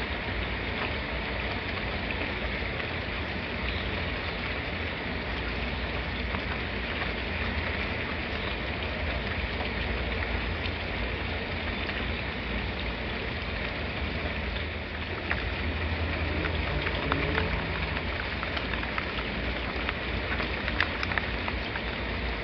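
Steady rain falling, an even hiss with a low rumble underneath; individual drops strike more sharply and often in the second half.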